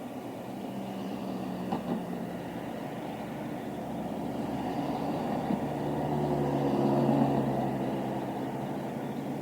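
Road traffic: a passing motor vehicle's engine and tyres over a steady rumble, growing louder to a peak about seven seconds in.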